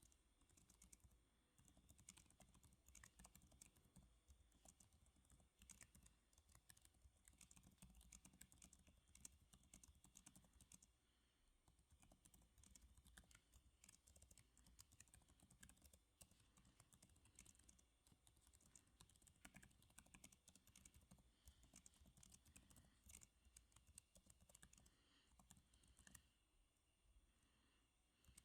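Faint typing on a computer keyboard: a quick run of key clicks, thinning out to scattered keystrokes after about eleven seconds.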